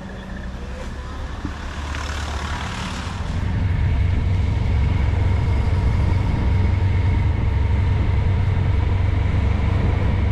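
Honda ST1100 motorcycle's V4 engine running, getting louder about three and a half seconds in and then holding steady as the bike pulls away. A brief hiss comes about two seconds in.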